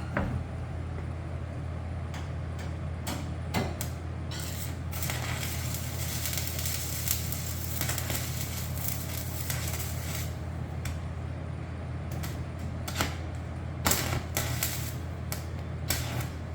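Stick welder arc crackling and hissing on sheet steel for several seconds in the middle, over a steady low electrical hum, with a few sharp metal knocks near the start and near the end.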